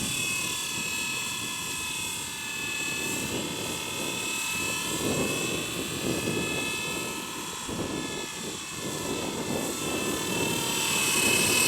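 Blade 230 S V2 collective-pitch RC helicopter in flight: its brushless electric motor and rotor give a whine whose pitch wavers up and down as the pilot works the controls, rising near the end.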